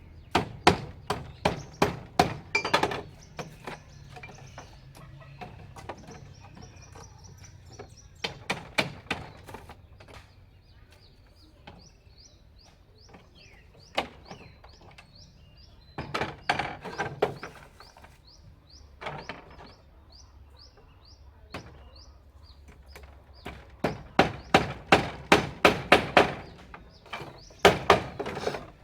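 Repeated chopping blows in runs of several strikes, about three to four a second, with pauses between the runs. A bird chirps rapidly and repeatedly in the background through the middle.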